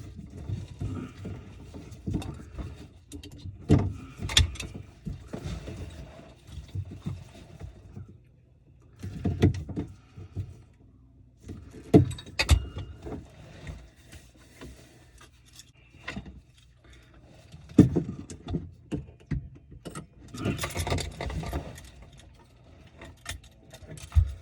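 Tools and plumbing parts being handled under a kitchen sink: irregular clinks, rustling and scraping, with several sharper knocks spread through.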